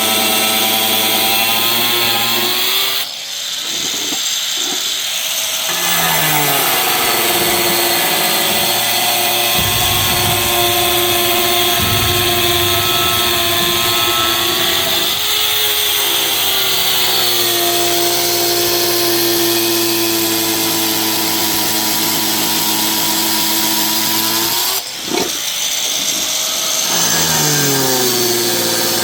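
A loud motor-driven machine running steadily at speed with a whining hum. Its speed drops sharply about three seconds in and again near the end, then climbs back up each time.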